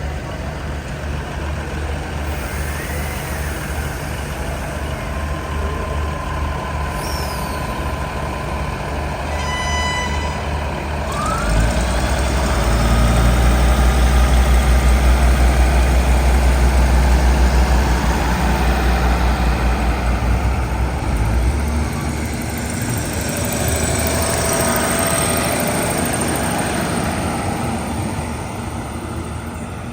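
Diesel locomotive of a passenger train running as the train pulls out. Its deep engine rumble grows loud about twelve seconds in and eases off after about twenty-one seconds, over the steady noise of the moving train.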